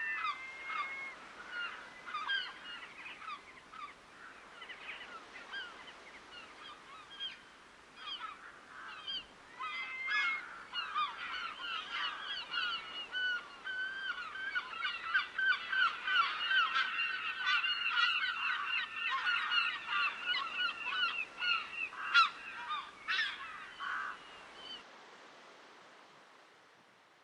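A flock of waterbirds calling in a dense chorus of short, rapidly repeated honking calls, which grows busier partway through and then fades away near the end.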